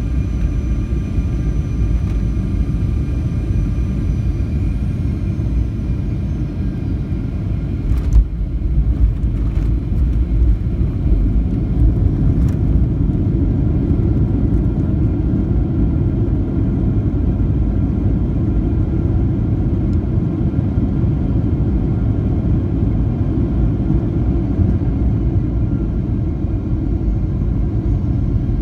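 Airliner cabin noise during landing: a steady low rumble. Faint engine whine winds down and fades in the first few seconds. A sharp thump about eight seconds in, as the wheels touch down, is followed by a few smaller knocks and then the steady rumble of the rollout.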